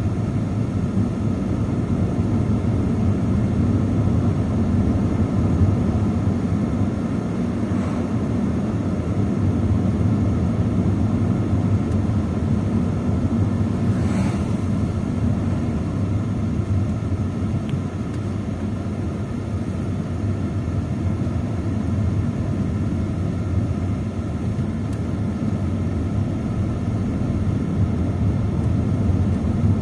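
A steady low rumble with a faint hum in it, unchanging throughout, and one faint click about halfway through.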